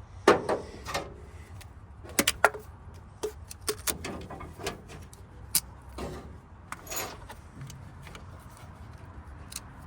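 Scattered sharp clicks and knocks of ignition coils and their boxes being handled during a coil and plug swap, with a quick cluster of three about two seconds in, over a low steady hum.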